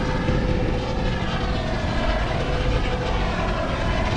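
A steady engine drone with a constant hum, mixed with rough wind-like noise.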